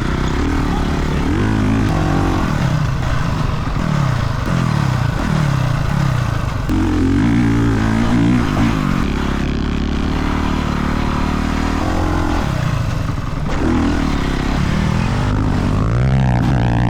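Dirt bike engine revving up through the gears and dropping back again and again, as on a motocross track, with a steadier high-revving stretch in the middle.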